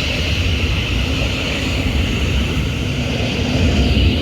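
Train running along the platform, a steady low rumble with a continuous hiss over it.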